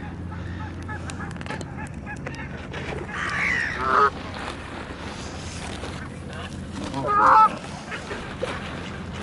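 Geese honking: two loud honks about four seconds apart, over a low steady hum.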